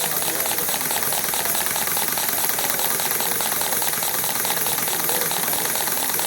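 Model swash plate engine running: a steady hiss with a fast, even rattle of exhaust beats.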